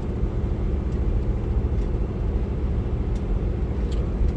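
Steady low engine and road rumble inside the cab of a 1998 Land Rover Discovery on the move, with a few faint clicks. The truck has an exhaust leak at the gasket between the manifold and the downpipe.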